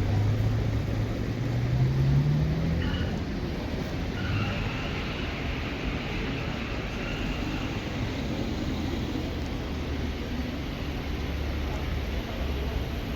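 A car's engine accelerating, its pitch rising over the first two to three seconds, followed by a steady rumble of street traffic.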